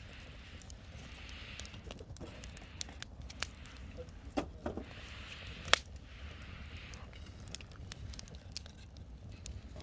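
Wood bonfire crackling, with scattered snaps and pops and one sharp, loud pop a little past the middle, over a low steady rumble.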